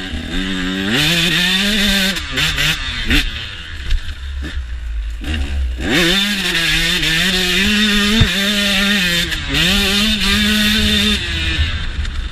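Single-cylinder KTM dirt bike engine revving up and easing off again and again on a woods trail. There is a short lull about four to five seconds in, then the revs climb sharply and keep surging and dropping.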